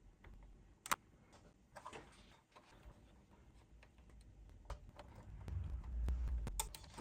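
Scattered clicks and taps of tools and small parts on a workbench as an amplifier's main board is taken apart, the sharpest click about a second in, with a brief rustle and, later, low handling bumps.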